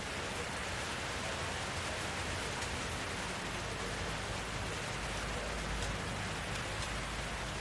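Steady rain: an even hiss with scattered drops ticking, and a low rumble that swells from about five seconds in.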